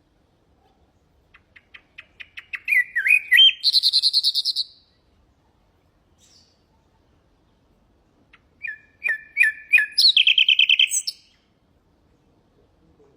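Common nightingale singing two song phrases, the second starting about eight seconds in. Each phrase opens with a quickening series of short notes, passes through a few warbled notes and ends in a rapid trill.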